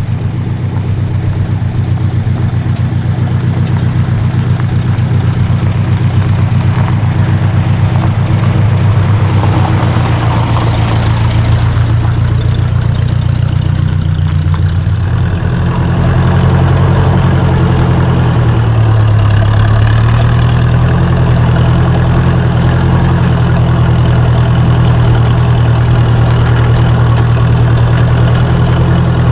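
1953 Ford Jubilee tractor's four-cylinder gasoline engine running steadily while driving. A brief rushing noise swells and fades about ten seconds in, and about sixteen seconds in the engine note shifts and gets a little louder.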